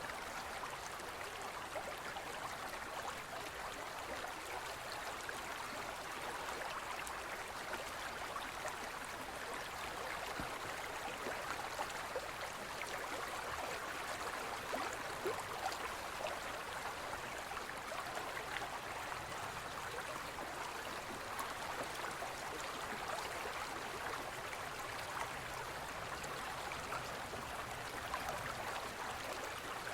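Gentle forest stream flowing over rocks: a steady splashing and gurgling rush with many small, quick trickles.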